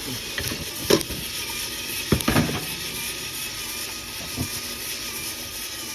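DIY drum coffee roaster running mid-roast with beans tumbling in the drum: a steady mechanical whir with a few sharp clicks scattered through.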